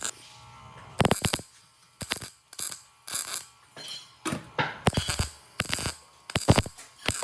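An irregular series of sharp metallic clinks and knocks, several a second, as metal pieces are handled or tapped against each other during fabrication.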